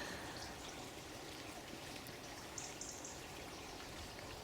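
Stream of water running steadily, a gentle trickle.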